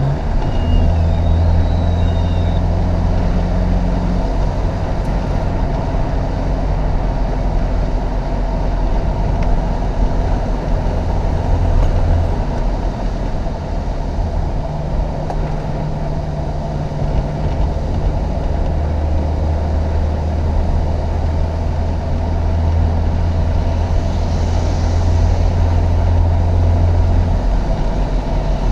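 Chevrolet Opala Comodoro's original four-cylinder petrol engine running hard under load, its note stepping up and down several times as the car is driven uphill, over a steady rushing noise.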